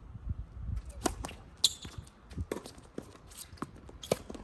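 A few sharp, irregularly spaced knocks of a tennis ball on the court and racket, the loudest about a second and a half in, with strong wind rumbling on the microphone.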